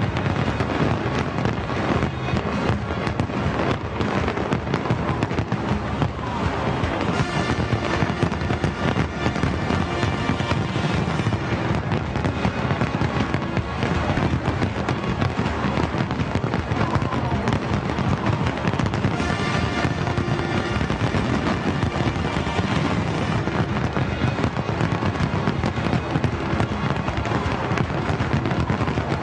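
Fireworks display: a dense, unbroken run of bangs and crackling shells, with music playing alongside.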